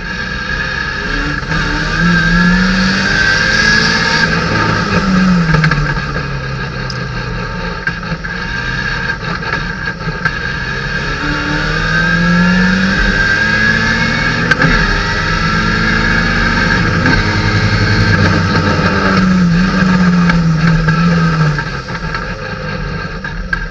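Datsun 510 race car's four-cylinder engine heard from inside the cockpit under racing load, its pitch climbing as it accelerates and dropping back several times as the driver lifts and shifts through the corners.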